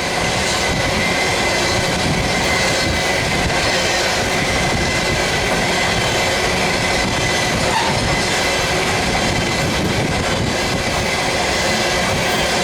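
Loaded tank cars of an oil train rolling past: a steady noise of steel wheels on rail, with a faint, steady high wheel squeal.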